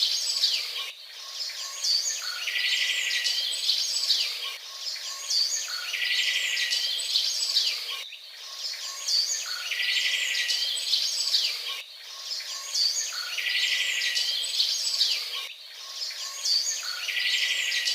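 A songbird singing, the same phrase repeating identically about every three to four seconds: a buzzy trill followed by quick high chirps.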